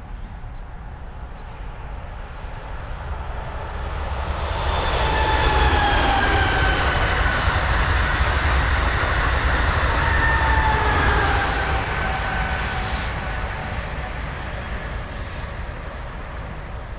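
Amtrak Acela Express high-speed electric trainset passing at speed: the rush of wheels on rail builds, holds loud for several seconds, then fades away. A high whine slides down in pitch twice as it goes by.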